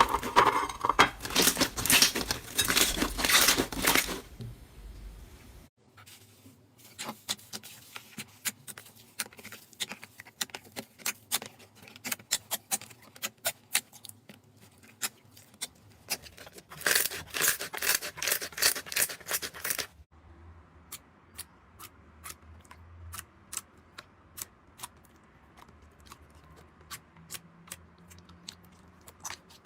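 Slime being squeezed and stretched by hand, crackling and clicking with small pops. The crackle is dense for the first few seconds and again for a few seconds past the middle, with sparser single clicks in between and towards the end.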